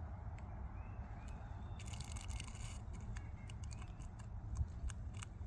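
Faint handling noise as pliers are released from a pinched maple sap tubing line: a brief rustle about two seconds in and scattered small clicks over a low wind rumble on the microphone.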